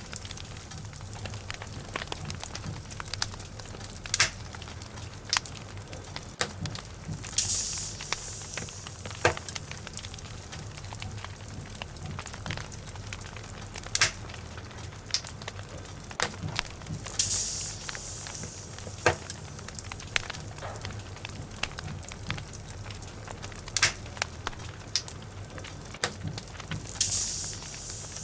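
Wood logs burning in a fireplace, crackling with frequent sharp pops over a low steady rumble of flames, and three short bursts of hissing.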